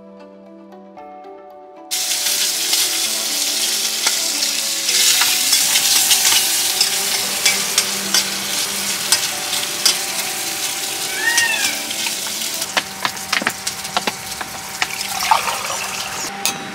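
Background music, then about two seconds in a loud sizzle starts as chopped food fries in a steel pot on a two-burner camping gas stove, with a spoon stirring and clicking against the pot; the music carries on underneath.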